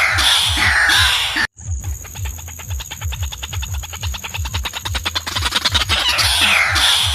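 Watercock calling: an even series of deep, hollow booming notes, each falling in pitch, about four a second, with higher falling calls over them near the start and end. The sound cuts out briefly about one and a half seconds in, like a splice in a looped recording.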